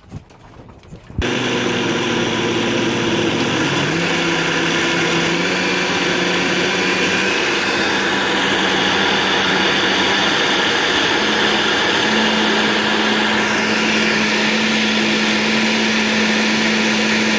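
A small motor-driven machine running steadily at a high, even level, starting abruptly about a second in, its hum rising in pitch in a few small steps.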